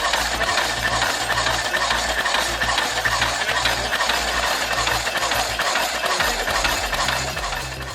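An engine-driven machine running with a fast, steady rattle over a low hum, easing off slightly near the end.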